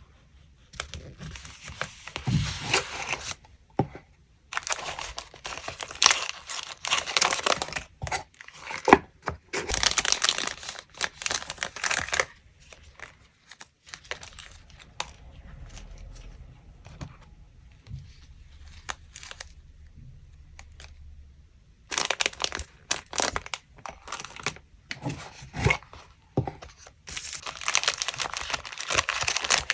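Paper being torn and crinkled by hand in several bursts of a few seconds with short pauses between them, and quieter handling in the middle.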